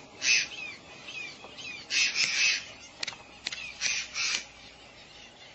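Birds calling: harsh, scratchy calls in about four short bursts, the longest about two seconds in, with a few brief falling whistles between them and two sharp clicks near the middle.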